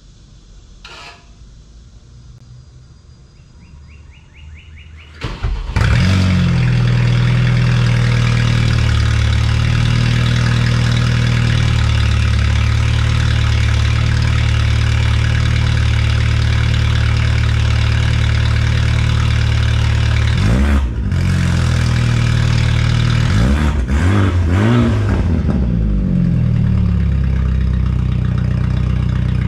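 BMW 428i Gran Coupe's N20 2.0-litre turbocharged four-cylinder, fitted with a DPW exhaust cutout, cold-starting about five seconds in. It runs loud at a steady fast cold idle, then the throttle is blipped several times near the end, the pitch rising and falling with each rev.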